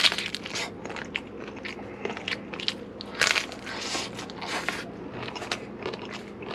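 Biting into a crisp tostada shell with a sharp crunch, then chewing it with repeated crunching and crackling.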